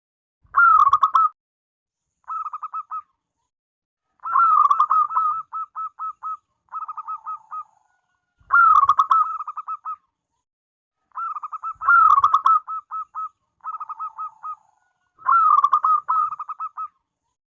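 A zebra dove (perkutut) singing its cooing song: repeated phrases that each open with a louder note and run into a quick series of staccato coos. Twice a phrase trails into a lower, drawn-out coo.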